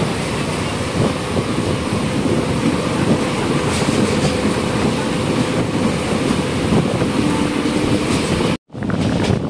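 Passenger express train running on the rails, a steady loud rumble and rattle of wheels and carriages. It cuts out briefly near the end, then resumes.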